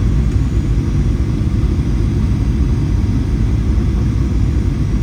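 Steady low cabin rumble of a Boeing 737-800 in flight on approach: engine noise and airflow heard from inside the passenger cabin.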